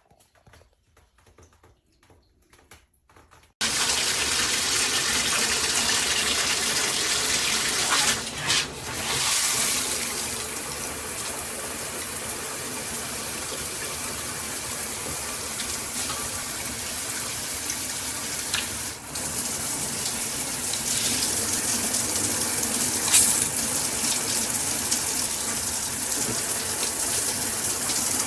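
Near silence with faint clicks, then about three and a half seconds in a handheld shower head is turned on and its high-pressure water spray starts with a sudden, steady hiss. The spray falters briefly about eight seconds in, then runs on a little softer.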